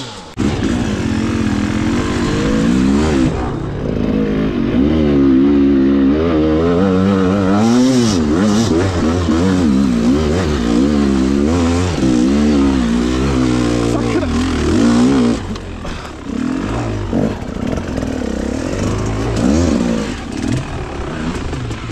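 Enduro motorcycle engine revving hard, its pitch rising and falling over and over as the bike struggles for grip on a soft sandy climb. The revs drop back briefly about fifteen seconds in, then pick up again.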